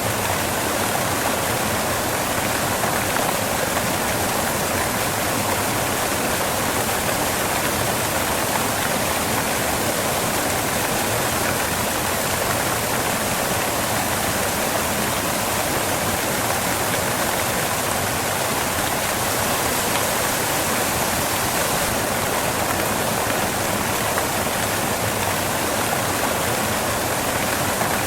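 Waterfall water crashing onto rocks: a steady, unchanging rush of falling water.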